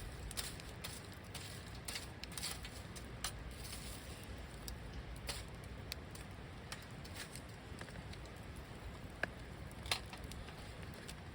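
Wood campfire crackling: irregular small snaps and ticks, with two sharper pops near the end, over a low steady rumble.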